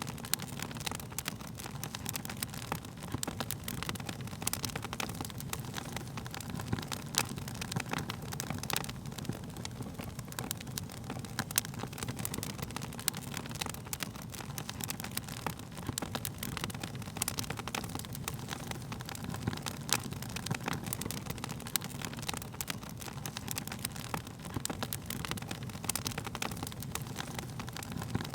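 Wood fire burning with a steady low rumble of flames and frequent irregular sharp crackles and pops from the burning wood.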